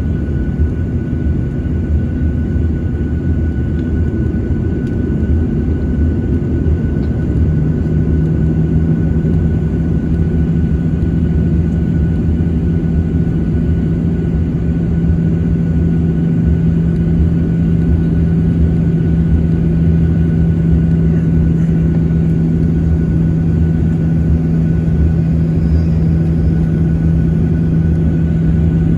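Boeing 737-900ER's CFM56 engines heard from inside the cabin: a steady, heavy rumble with a thin high hum. A deep steady drone joins about seven seconds in and holds.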